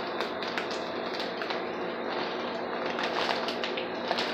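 Breaded chicken pieces frying in butter in a skillet: a steady sizzle with frequent irregular crackling pops.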